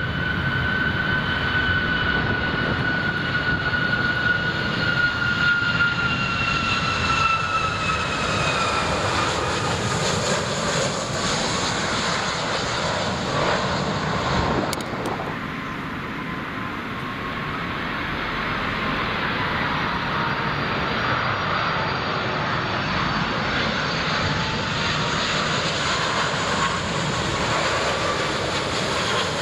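Boeing 757 jet passing, a loud engine roar with a whine that falls in pitch as it goes by. About halfway through the sound eases off, then jet roar builds again.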